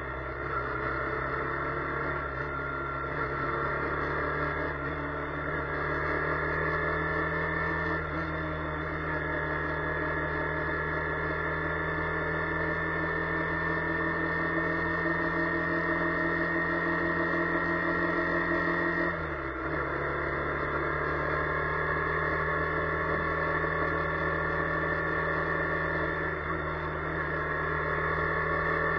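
Car engine and drivetrain drone heard inside the cabin while driving, a steady hum of several tones that slowly rise in pitch as the car speeds up. The sound dips briefly and its pitch drops once about two-thirds of the way through, then climbs again.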